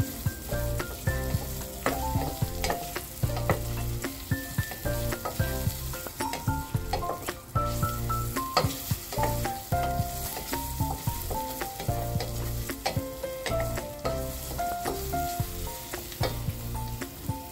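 Sliced onions and garlic sizzling as they sauté in oil in a stainless steel pot, stirred with a wooden spatula that scrapes and knocks against the pan. A soft melodic music bed plays underneath.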